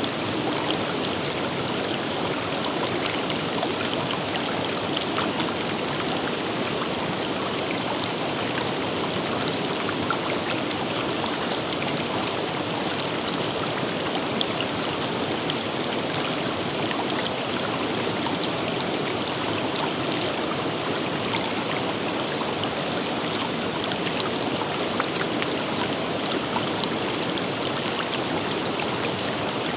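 Forest river flowing steadily, a constant rush of water flecked with many small splashes.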